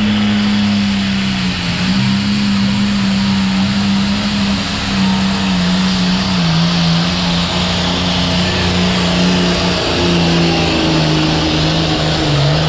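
Truck engine and road noise while driving: a steady low hum that steps down in pitch about halfway through and again near the end.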